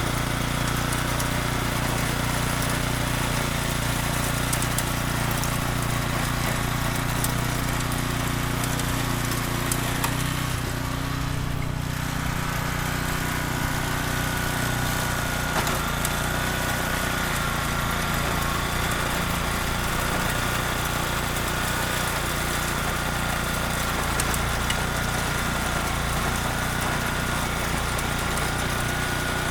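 Small engine of a mini tractor (cultivator) running steadily. About twelve seconds in its note shifts, and a higher steady whine joins it.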